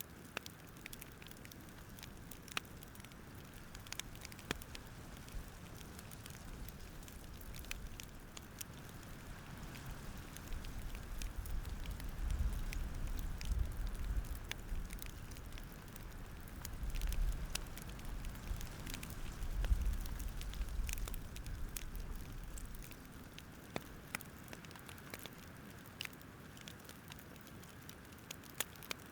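Campfire crackling: scattered sharp pops and snaps over a soft hiss. A low rumble swells up partway through and fades again.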